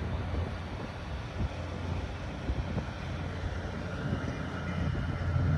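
Tugboat's diesel engine droning steadily as it pushes two barges, with a faint steady whine joining about four seconds in.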